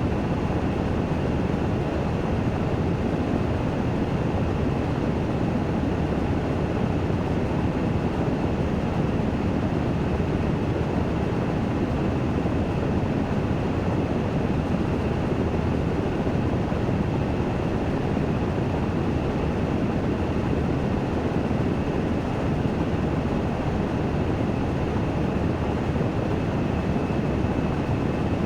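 Washing machine spinning in its spin-dry cycle: a steady rushing drone with a faint, steady high whine over it.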